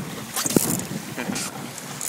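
Water slapping and splashing against a small Sunfish sailboat's hull in choppy water, with wind gusting on the microphone. Two sharper splashes stand out, about half a second in and again near the end.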